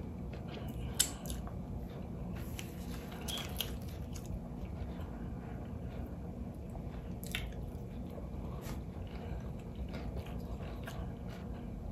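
Close-up chewing and biting of crunchy fried catfish, with scattered crisp crunches and clicks.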